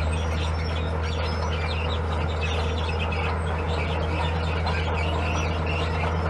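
Heavy diesel construction machine engine running steadily, a constant low drone, with scattered high chirps over it.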